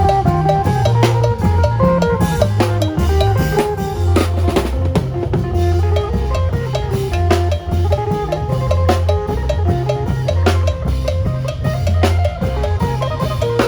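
Isan phin band playing lam phloen: a fast, plucked phin melody over heavy bass notes and a steady drum-kit beat.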